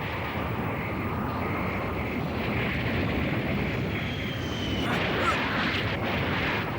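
Cartoon sound effects: a steady rushing rumble, as of an aircraft flying close to an erupting volcano, with a faint high whistle that falls slightly about four seconds in.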